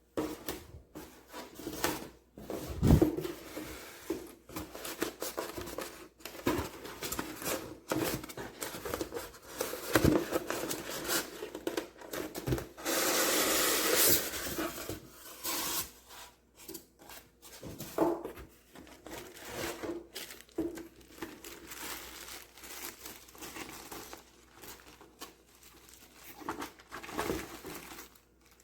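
Hands handling objects: a series of knocks and clicks of things being moved and set down, with rustling and tearing of packaging. A longer steady tearing or scraping sound lasts about two seconds near the middle.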